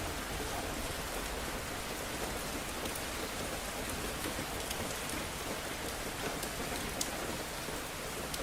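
Steady rain falling, an even hiss with a few scattered sharp ticks, the clearest about seven seconds in.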